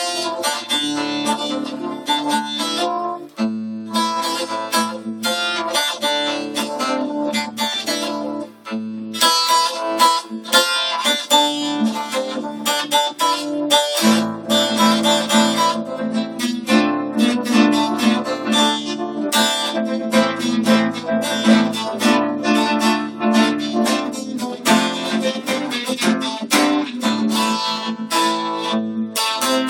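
Acoustic guitar playing an instrumental introduction to a Turkish folk song, plucked and strummed, with no singing.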